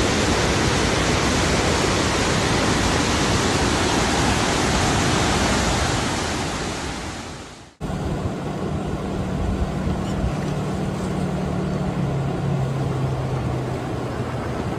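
Loud, steady rush of floodwater pouring through an overflowing wadi, fading out and cutting off about eight seconds in. After the cut there is quieter water or wind noise with a low steady hum that drops in pitch near the end.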